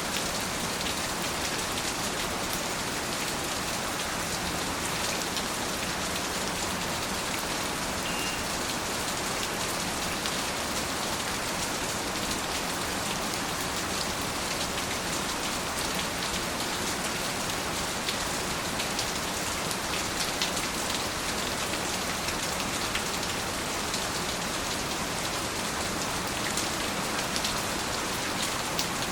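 Steady, heavy rain falling on surfaces, a dense even patter with scattered individual drops standing out.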